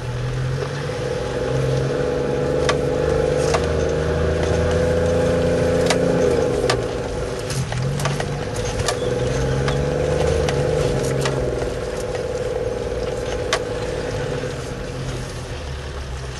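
Off-road 4x4's engine heard from inside the cab, running steadily at low speed under load on a rough dirt track, its note rising and falling a little. Scattered sharp knocks and rattles from the vehicle jolting over the ruts.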